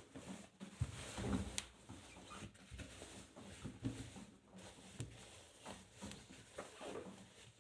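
Arçelik 5083 front-loading washing machine with its drum turning slowly during the rinse, wet laundry tumbling and water sloshing in soft, irregular thumps and swishes under a faint motor hum.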